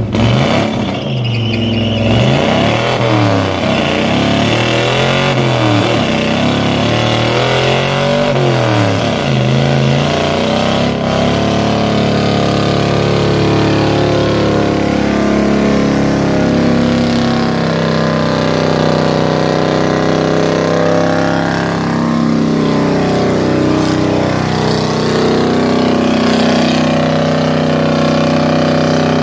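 Chevrolet C10's 383 stroker small-block V8 revved hard in a run of rising and falling blips. From about ten seconds in it is held at high revs steadily, as in a burnout.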